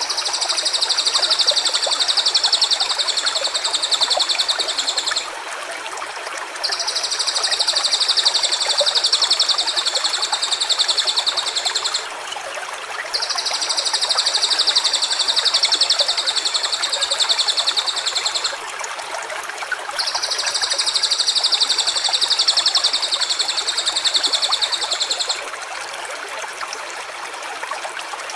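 A high, rapidly pulsed buzzing trill sounds four times, each run about five seconds long with short gaps between. A steady running stream goes on underneath.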